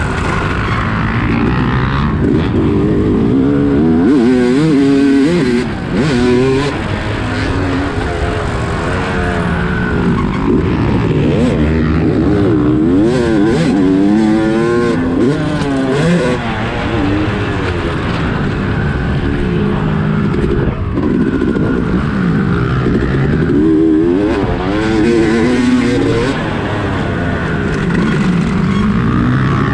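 Motorcycle engine being ridden hard, its revs rising and falling over and over as the throttle is worked, under a constant rush of wind noise.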